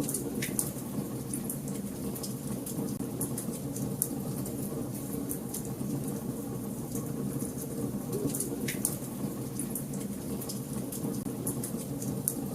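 Wood fire burning in a fireplace: a steady low roar of flames with irregular sharp crackles and pops throughout, a few louder snaps.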